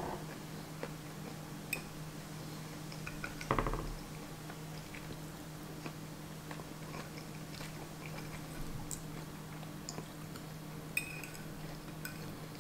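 Close-miked chewing of a fried full English breakfast, with the fork clicking lightly against the plate now and then over a steady low hum. A brief hum from the eater's throat about three and a half seconds in is the loudest moment.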